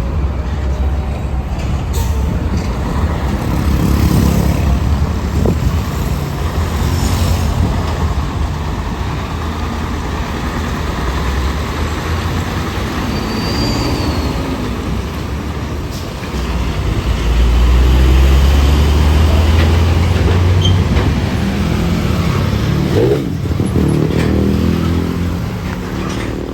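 Heavy road traffic passing close by: diesel engines of buses and trucks rumbling past, the loudest pass about two-thirds of the way through, with an engine's pitch climbing near the end.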